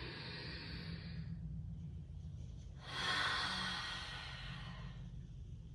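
A woman's slow, deep breath: the end of a long audible inhale, then about a second and a half later a louder, sighing exhale lasting about two seconds.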